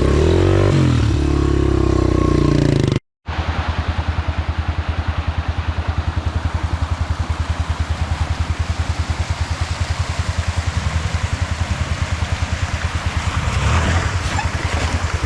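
Off-road vehicle engine revving up and down, then the sound cuts out completely for a moment about three seconds in. After the break the engine runs at a steady, low, evenly pulsing note, with a short surge of noise near the end.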